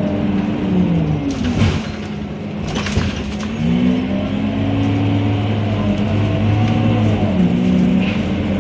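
Scania K230UB city bus's diesel engine running. Its pitch drops about a second in, climbs again from about two and a half seconds, and drops again near the end as engine speed changes. Two short bursts of noise come about one and a half and three seconds in.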